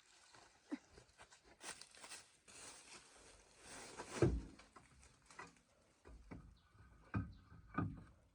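Irregular knocks, taps and short scraping sounds, with louder thumps about four seconds in and twice near the end.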